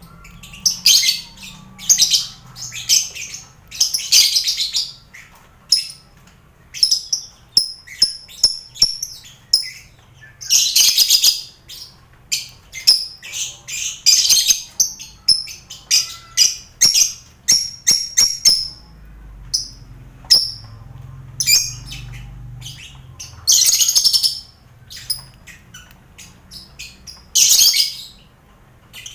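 Lovebird colony aviary, with finches among them, calling busily: shrill chirps and screeches come in rapid, overlapping bursts with short gaps.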